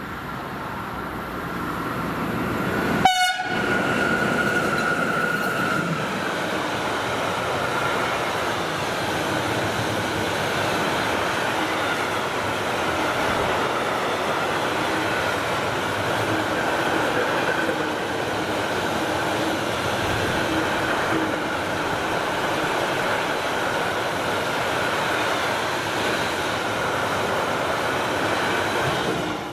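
A train passing close by: a long steady rush of wheel and rail noise with a faint high whine running through it. A short sharp click about three seconds in.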